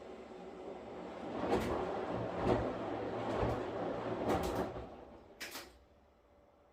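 Washing machine working: a swell of swishing noise with several dull knocks over a few seconds, then two sharp clicks before it drops back to a low hiss.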